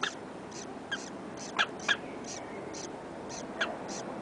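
Short, high bird calls repeated irregularly, about eight or nine in four seconds, the loudest a quick pair near the middle.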